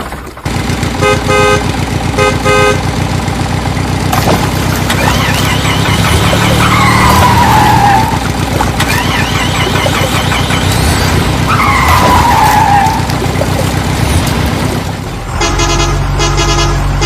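A heavy vehicle's engine running steadily, with two short horn honks about a second apart near the start. Two falling squeals come about five seconds apart midway, and near the end a louder, rhythmic multi-tone horn pattern begins.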